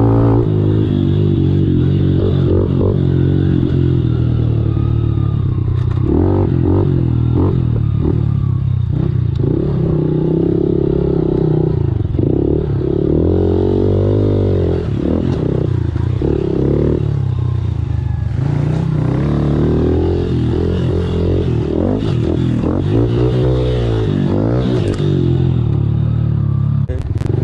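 Small four-stroke pit bike engine being ridden, revving up and falling back over and over as the throttle opens and closes.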